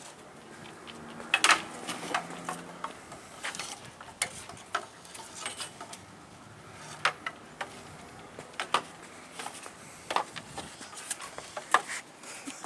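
A dog on a staircase with a stick in its mouth: irregular knocks and clicks as the stick bumps against the stairs.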